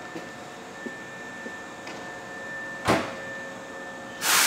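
A stabled Hankyu electric train humming steadily, with a few faint steady tones. A short burst of hiss comes about three seconds in, and a longer, louder hiss near the end.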